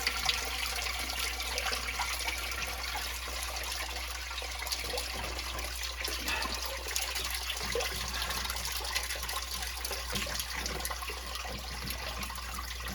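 Water running and trickling steadily into a sump pit, let out of the sump pump's discharge pipe as the check valve's coupling is loosened to release the pressure held above the valve.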